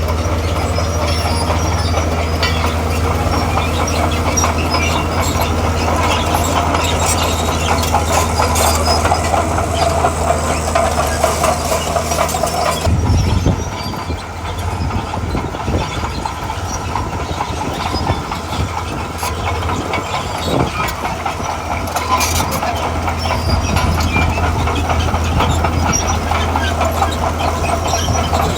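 Heavy crawler machine working: a diesel engine running steadily under dense clanking and rattling from its steel tracks. About halfway through, the engine note drops briefly, then picks up again.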